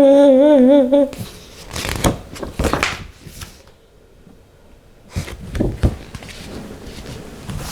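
A woman's voice holds a sung 'doo' note with a wavering pitch for about a second, then cuts off. Paper pages of a picture book are handled after that, with short rustles and taps in two bursts.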